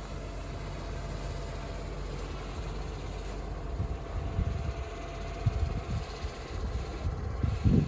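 Garbage truck's diesel engine running steadily with a thin steady whine while it tips off its load, with heavier low rumbling surges building near the end.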